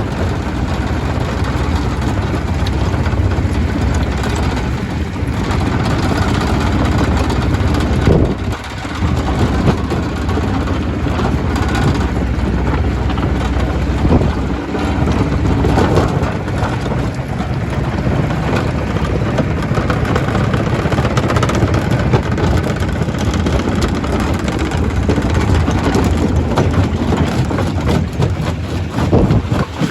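Stone crusher running under load: a steady, loud engine-like drone with scattered knocks and cracks from rock being broken.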